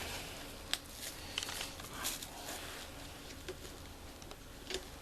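Scattered small clicks and taps of hard plastic headlight parts and clips being handled, about half a dozen over a few seconds, the sharpest a little under a second in and again near the end.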